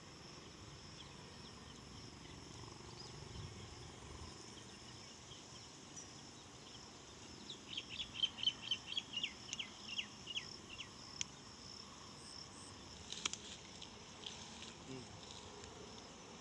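Quiet pond-side ambience: a faint steady hiss and a thin high insect whine, with a bird calling a quick run of about a dozen short, falling chirps a third of the way through. A brief sharp crackle follows a few seconds later.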